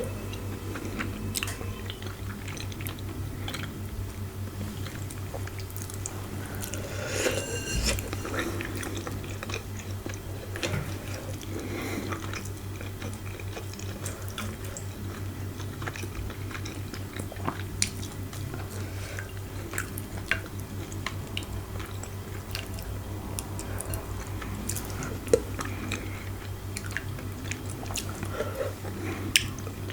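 Person eating close to the microphone: chewing and biting with many small wet clicks, over a steady low hum.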